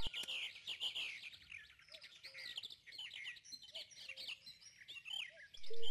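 Small birds chirping and twittering, many quick overlapping calls that rise and fall in pitch.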